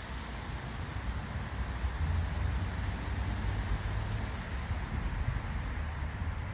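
Wind buffeting the microphone: an uneven low rumble that swells about two seconds in, over a steady outdoor hiss.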